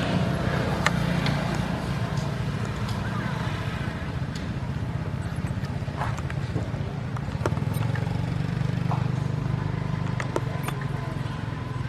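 A steady low mechanical hum, with scattered sharp clicks and taps over it.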